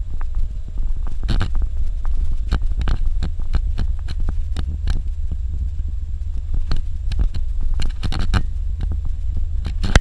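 Suzuki Jimny driving over a dirt road: a steady low rumble with frequent irregular knocks and rattles as it goes over the rough surface.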